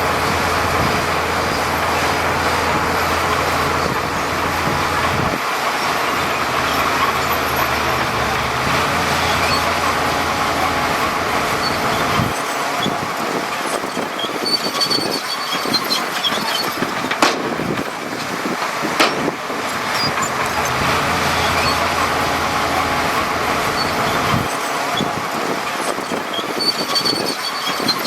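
Heavy diesel earthmoving machinery running steadily. Its deep engine rumble fades out and comes back a few times, and a few sharp knocks stand out in the second half.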